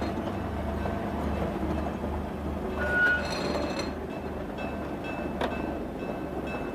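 Vintage narrow-gauge diesel locomotive running, its engine making a steady low pulsing drone, with a brief high tone about three seconds in.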